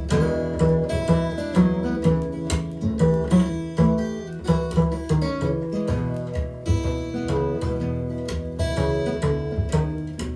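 Instrumental break in an acoustic blues song: acoustic guitar playing quick plucked notes over a steady rhythm, with no vocals.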